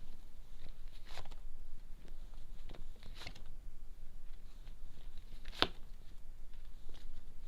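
Tarot cards being shuffled and laid out on a table, with a few separate sharp slaps of cards going down, the loudest a little past the middle.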